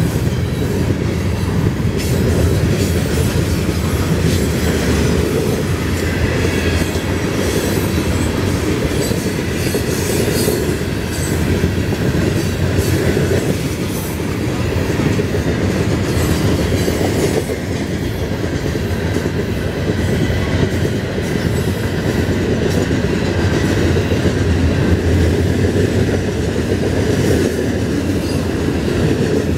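Loaded open-top hopper cars of a Florida East Coast Railway freight train rolling past, a steady heavy rolling noise with irregular sharp clacks from the wheels.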